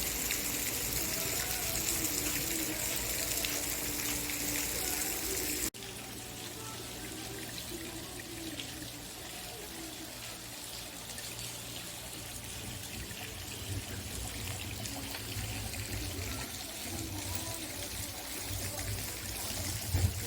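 Running water trickling and splashing steadily, dropping abruptly to a quieter level about six seconds in.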